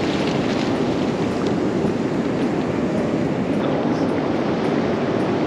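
Ocean surf breaking and washing up the beach: a steady rushing of rough waves.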